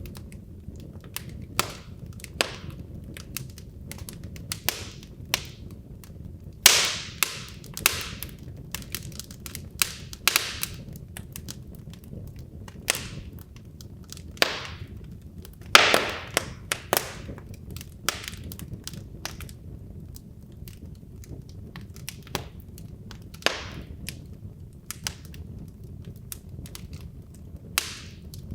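Wood logs burning in a fireplace, crackling with irregular sharp pops over a low steady rumble of the flames; the loudest pops come about 7 and 16 seconds in.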